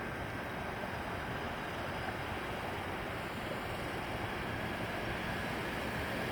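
A steady outdoor rumble and hiss with no distinct events. A faint high hum grows slightly stronger near the end.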